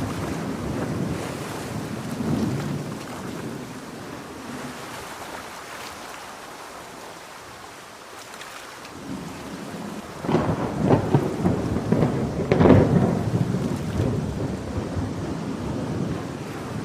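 Steady heavy rain with rolling thunder; it eases off for a few seconds, then a crackling thunderclap breaks in about ten seconds in, peaks a couple of seconds later and rumbles away.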